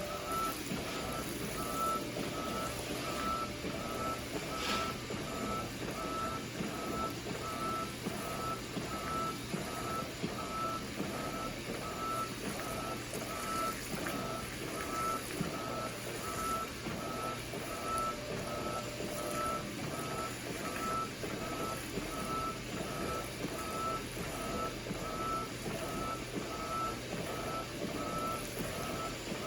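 Electronic beeper sounding a short single-pitched beep over and over at an even pace, about three beeps every two seconds, over a steady background noise.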